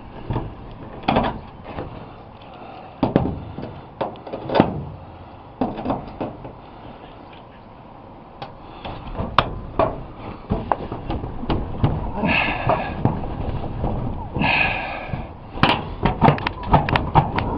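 Nails being worked out of wood behind thin aluminum garage paneling: repeated sharp knocks, clanks and rattles of the tool against the nails and the panel, coming thicker near the end. Two short squeals sound about 12 and 14 seconds in.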